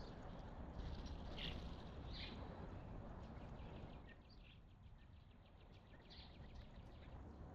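Small wild birds calling faintly: scattered short high chirps, with a fast trill of many short notes about three seconds in, over a steady low outdoor rumble.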